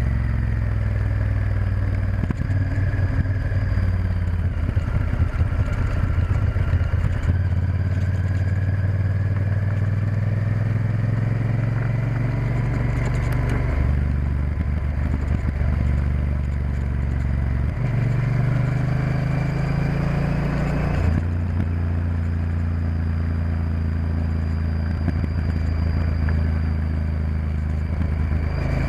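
Honda Varadero XL1000's V-twin engine running under way, heard from on board the moving motorcycle. The engine note shifts in steps about three times.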